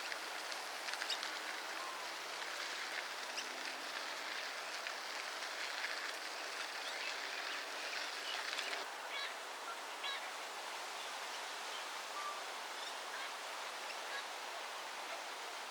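Steady outdoor background hiss with scattered faint bird chirps and short calls, like the waterfowl and small birds of a lakeside park.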